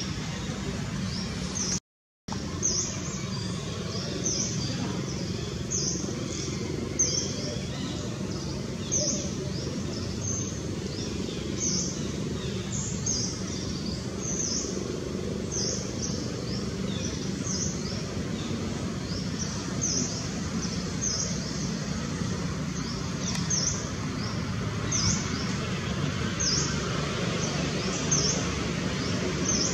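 A bird calling over and over with short, high, falling chirps, about one a second, over a steady low rumble of background noise. The sound drops out completely for a moment about two seconds in.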